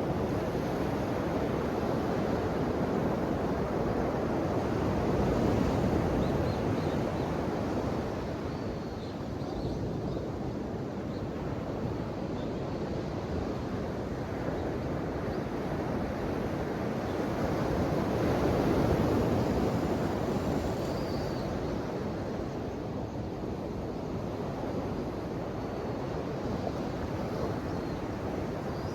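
Ocean surf washing in, a continuous rush of waves that swells and eases, growing louder about five seconds in and again around nineteen seconds.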